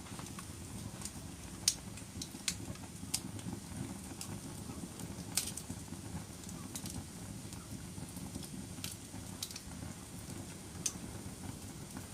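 Wood fire burning in a fireplace: a low steady rumble of flames with sharp crackles and pops about once a second.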